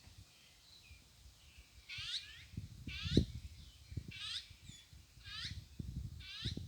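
Eurasian nuthatch calling, a short run of quick falling notes repeated about once a second, with dull low knocks and rustles from birds moving in the nest box.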